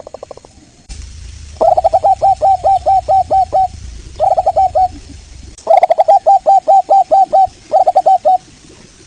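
Zebra dove (local Indonesian perkutut) calling in rapid staccato cooing runs of short notes, about five a second. There is a long run, a short one, another long run and a short one.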